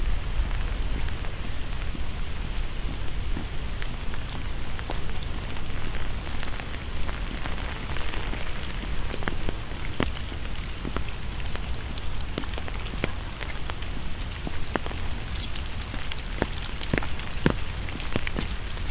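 Steady rain, with many separate drops ticking sharply close to the microphones, over a low steady rumble.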